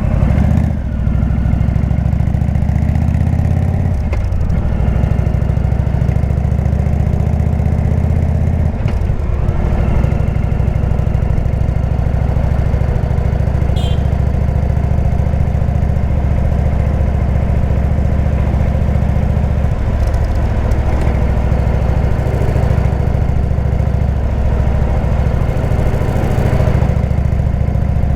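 Indian V-twin motorcycle engine running through a Jekill & Hyde exhaust while riding, its pitch climbing under acceleration over the first few seconds. It eases off briefly about four and nine seconds in, then runs steadily.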